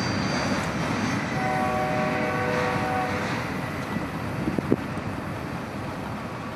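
Long freight train of auto racks and double-stack cars rolling by, a steady rumble of wheels on rail. About a second and a half in, a short chord of steady tones sounds for under two seconds. Near the end come a couple of sharp knocks.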